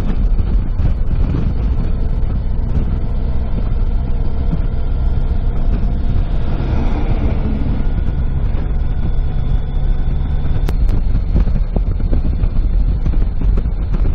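Car driving along a road, heard from inside the cabin: steady engine and tyre rumble, with a rush of noise that swells and fades about halfway through.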